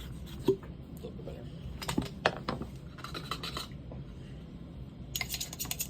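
Small metal parts of a pneumatic siding nailer clinking and being handled during a rebuild: a few separate clicks, then a fast rattling run of clicks begins near the end.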